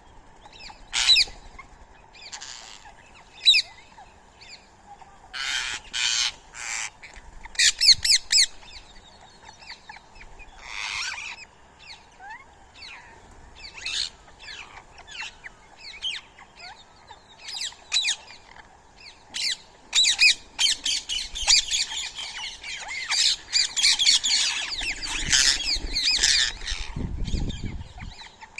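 Birds squawking and chirping in short, sharp calls that come in scattered bursts and then thicken into dense, overlapping chatter about two-thirds of the way in.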